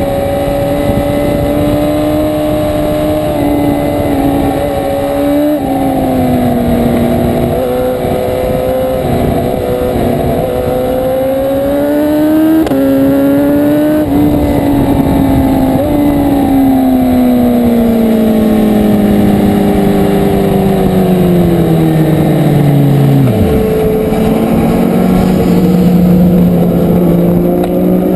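1000 cc superbike engine running at part throttle. Its note climbs and then drops sharply several times as the gears change. It then winds down steadily over several seconds and settles into a steady lower note near the end.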